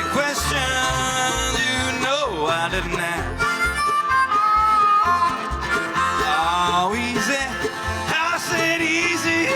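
Live band playing an instrumental break: a lead line that slides and bends between notes over strummed accompaniment and a steady bass beat.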